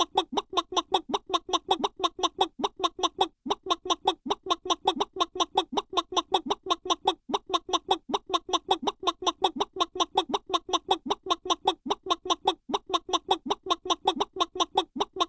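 Chicken clucking sound effect: rapid, evenly spaced clucks, about five a second, in long runs with a few brief breaks.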